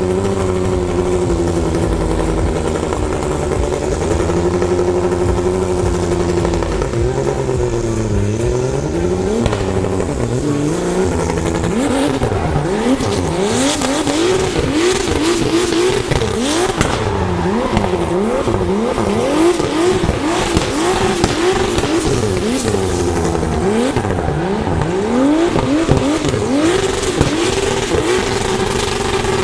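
Turbocharged BMW E36 328i's M52 inline-six held at steady revs for about seven seconds, then revved up and down rapidly, over and over, as the car is driven in a drift.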